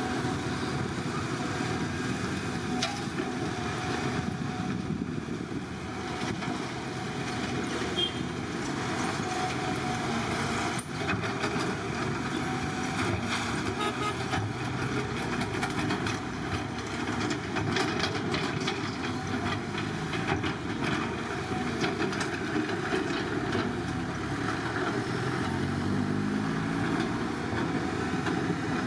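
Diesel engines of heavy earthmoving machinery running steadily. Near the end one engine's pitch climbs as it revs up.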